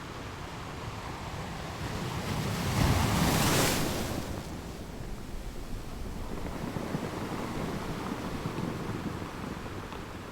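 Ocean waves breaking on a shore: a wave builds and crashes about three seconds in, then washes back, and a smaller wave rises later.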